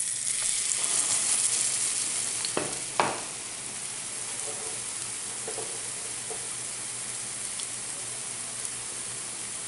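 Gram-flour-battered bread slice sizzling in shallow oil in a frying pan: a loud burst of sizzling as the wet batter goes into the hot oil, settling after about three seconds into a steady, quieter sizzle. A couple of sharp clicks come about three seconds in.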